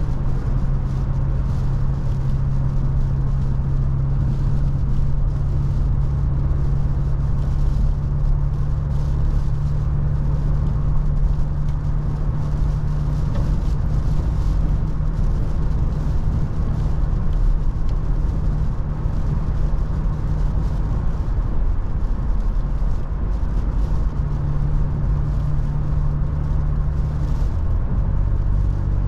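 Toyota FJ Cruiser driving: a steady engine hum and rumble over road and wind noise. The engine's hum drops in pitch about two-thirds of the way through and again near the end.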